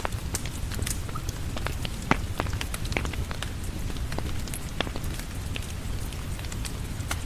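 Steady rain with a low rumble, dotted with frequent sharp crackles and pops of a wood fire; one louder pop comes about two seconds in.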